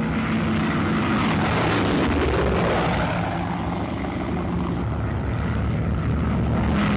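Piston aircraft engines droning as a twin-engined Junkers Ju 88 flies by, the pitch dipping and rising again about halfway through.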